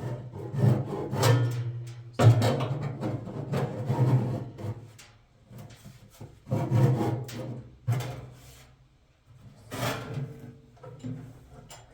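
Rough scraping or rasping strokes, in about four bursts of a second or more each with short pauses between.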